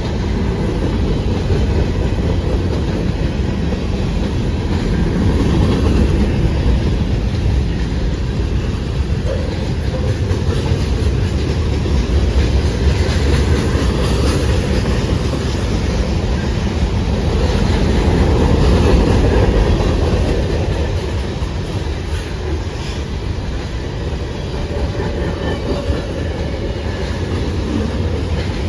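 Freight cars of a long manifest train rolling past, a loud steady rumble of steel wheels on rail with faint clicking as wheels cross rail joints.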